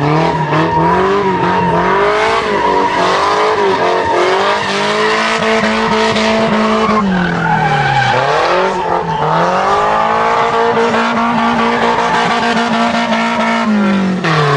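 Drift car's engine revving hard, its pitch held high and dipping and climbing back several times, with tyres squealing through a drift.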